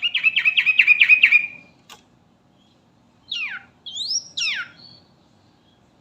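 Sooty-headed bulbul (trucukan) singing: a fast run of about eight chattering notes lasting a second and a half, then after a pause three clear whistled notes, two falling and one rising.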